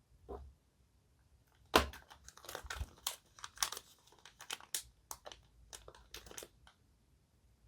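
Plastic packaging crinkling and crackling as it is handled and pulled open by hand. There is a single crackle near the start, then a run of quick crisp crackles for about five seconds, the loudest at the beginning of the run.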